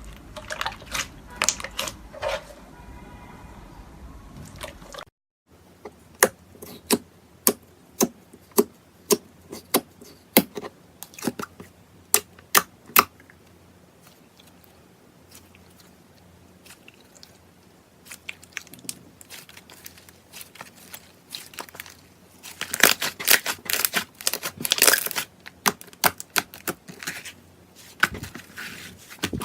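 Slime being squeezed and poked by hand, making sharp clicks and pops. Partway through comes a run of evenly spaced pops about every half second, then scattered clicks, and near the end a dense stretch of crackling.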